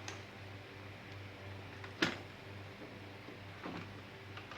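Quiet handling sounds of a new dust bag being fitted into a bagged canister vacuum's bag compartment: one sharp plastic click about two seconds in, a fainter one near the end, over a steady low hum.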